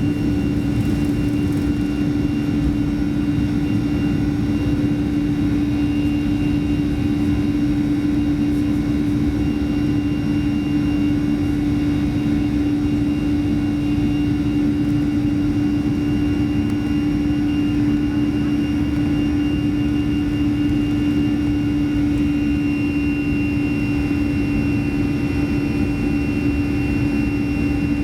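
Boeing 737-300's CFM56-3 jet engines running at a steady power, heard inside the passenger cabin as a constant hum with a strong low steady tone and fainter higher tones.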